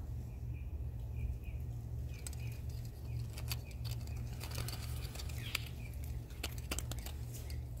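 Small birds chirping in short repeated notes, with a few sharp clicks scattered through and a steady low hum underneath.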